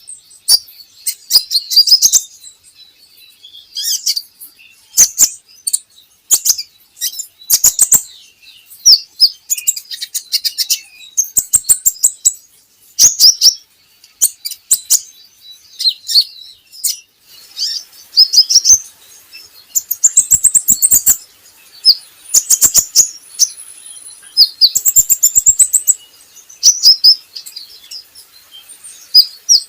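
Kolibri ninja sunbird singing: short, rapid bursts of high, sharp chirps and trills, roughly one burst every second or two.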